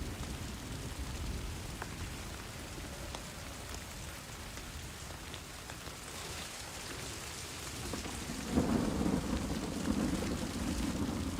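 Steady rain falling, with scattered drops ticking. A low rumble rises about eight seconds in.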